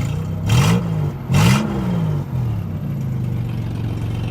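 Vehicle engine exhaust with the catalytic converters removed but the muffler still fitted, idling and blipped twice in quick succession, then settling back to idle.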